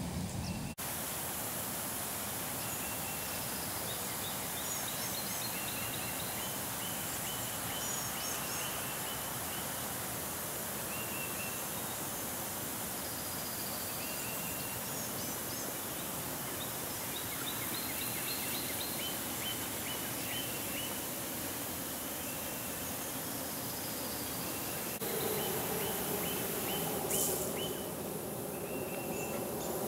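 Outdoor ambience: a steady hiss with many short, high bird chirps scattered through it. About 25 seconds in, a lower steady hum joins.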